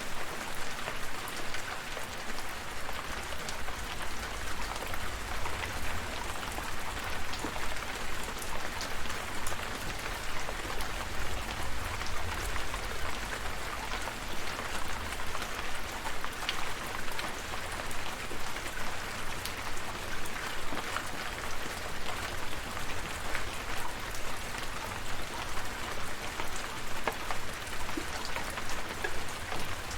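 Steady rain falling, a continuous hiss dotted with many individual drop ticks, over a low rumble underneath.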